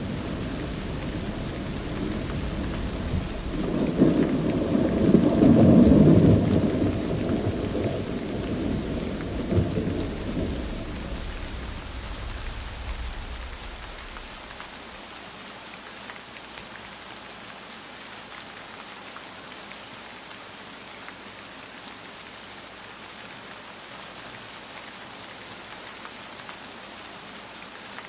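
Steady rain with a roll of thunder that builds about four seconds in, peaks around six seconds with a few cracks, and rumbles away by about fourteen seconds, leaving only the rain.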